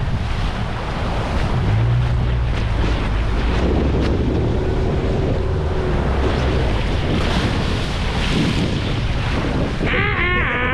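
Strong wind buffeting the microphone over the sound of waves, with a low steady hum underneath. Near the end a wavering, high-pitched call cuts in.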